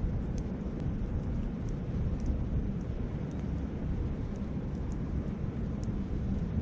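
Campfire crackling, with a dozen or so short, sharp pops scattered through, over a steady low rumble of wind on the microphone and a flowing river.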